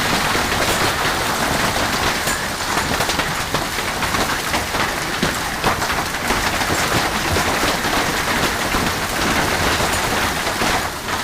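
Hailstorm of golf ball-sized hailstones, a dense steady clatter of countless stones striking hard surfaces.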